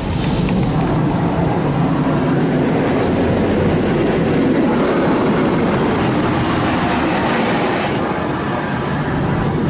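High-pressure water jets from a touchless automatic car-wash gantry spraying against the car body during a pass, heard from inside the car as a loud, steady, dense rush. It starts abruptly and keeps going.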